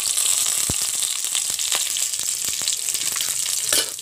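Sliced onions frying in hot ghee in a kadai: a steady sizzle dotted with small crackles, with one louder clatter near the end.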